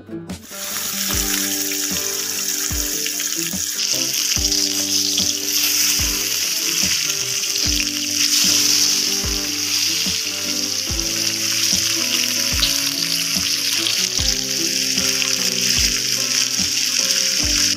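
Halved eggplant pieces frying in hot oil, with a loud, steady sizzle that starts abruptly about half a second in. Background music with a steady beat plays underneath.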